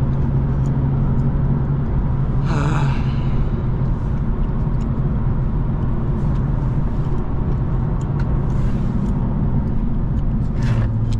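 BMW M2 engine idling steadily with a constant low hum. The idle note drops slightly near the end. A brief hiss comes about two and a half seconds in and another near the end.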